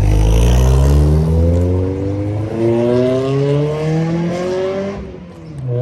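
A Honda Prelude's four-cylinder engine, breathing through a new aftermarket exhaust, pulling hard under acceleration. It is loud at first, then its note climbs steadily in pitch and fades away about five seconds in.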